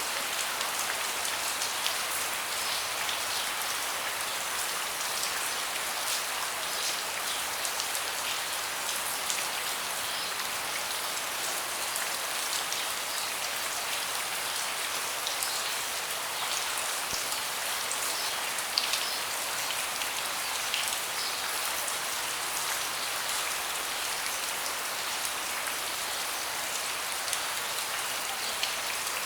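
Steady rain falling on a deck, an even hiss with many separate drops ticking close by.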